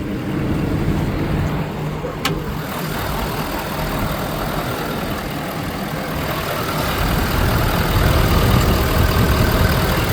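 Ford 6.7 L Power Stroke V8 diesel engine idling steadily, growing louder in the second half, with one sharp click about two seconds in.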